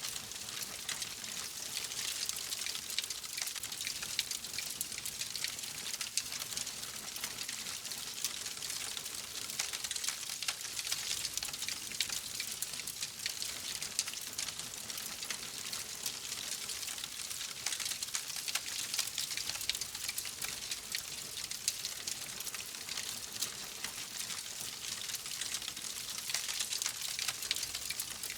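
Wood fire crackling steadily, a dense run of small pops and snaps over a soft hiss.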